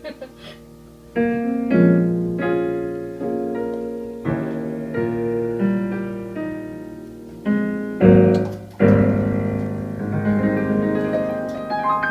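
Background piano music: gentle chords and a melody played on a piano or electric piano.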